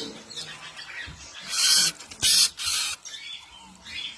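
Bird sounds: three short hissing bursts in quick succession about halfway through, over faint background calls.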